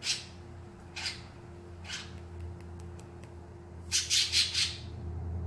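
A bird squawking: short harsh calls about once a second, then a quick run of five or six louder ones near the end, over a steady low hum.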